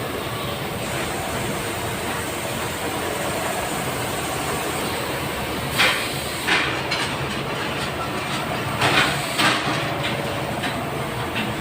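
Vacuum forming machine running with a steady mechanical noise, then several short hissing bursts in the second half.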